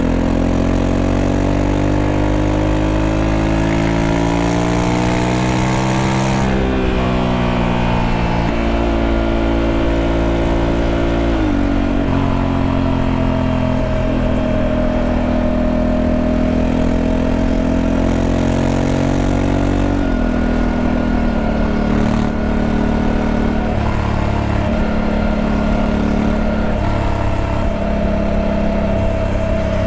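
Honda Africa Twin 1100's parallel-twin engine running under load: the revs climb steadily for about six seconds, drop sharply, climb again and drop once more about eleven seconds in, like upshifts while accelerating. It then holds steady revs, with a further drop about twenty seconds in.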